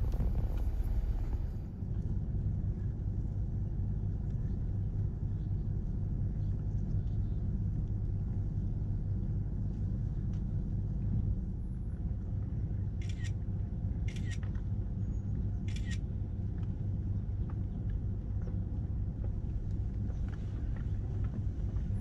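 Vehicle engine running with a steady low rumble, picked up by a camera mounted on the hood. A little past halfway come three short hisses.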